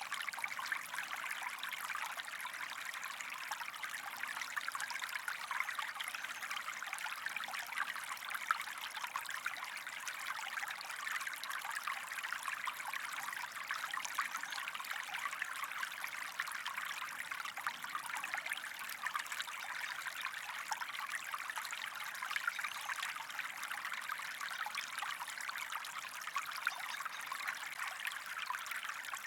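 Small stream running steadily, a dense, even trickling and splashing of water that does not let up.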